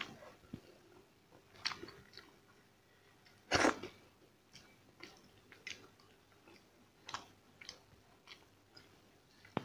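A person chewing a mouthful of rice and curry, with soft intermittent mouth clicks and smacks, and one louder mouth sound about three and a half seconds in.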